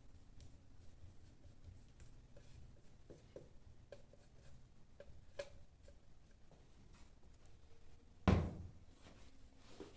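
Faint handling sounds: scattered light clicks and taps of objects being moved about, with one louder thump a little past eight seconds in.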